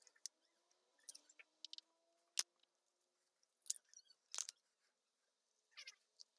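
Faint handling noise: a few sharp ticks and short crackles scattered among quiet gaps, the loudest a click about two and a half seconds in.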